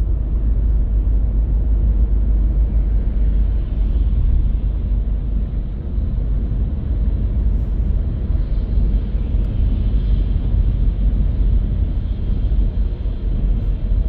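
A car driving along the road: a steady, deep rumble of road and tyre noise with no change in pace.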